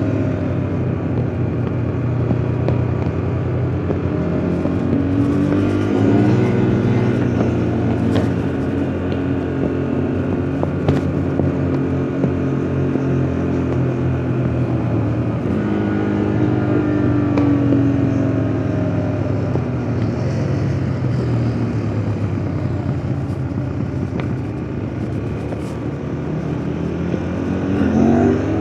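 KTM RC 390's single-cylinder engine running hard on the road. Its pitch falls as it slows and rises again under acceleration several times, with a sharp rev-up near the end.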